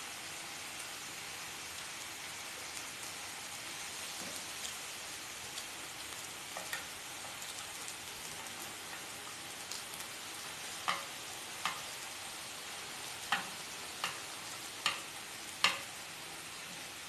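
Pork belly and sausages sizzling in a nonstick pan, a steady hiss, with a run of sharp clicks in the second half.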